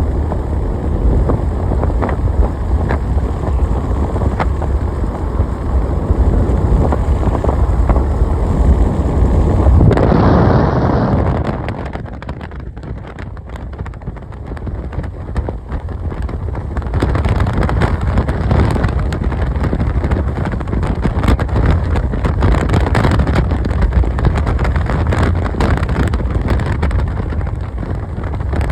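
Wind buffeting the microphone over the rumble of a moving car. The noise eases for a few seconds about halfway through, then returns.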